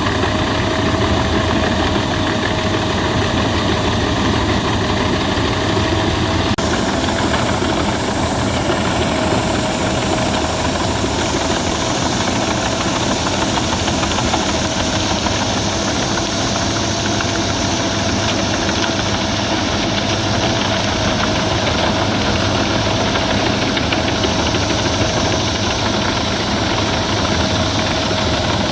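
Albach Diamant 2000 wood chipper running steadily, a loud even machine noise with a constant whine.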